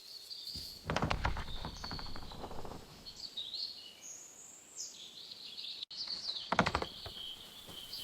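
Birds chirping over a soft outdoor ambience, with two short bursts of rapid clicks or rustling, one about a second in and one near seven seconds.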